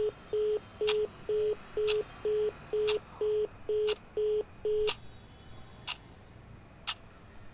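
Phone busy tone: short, even beeps about two a second that stop about five seconds in, signalling that the call has ended. Behind it, a sharp tick about once a second.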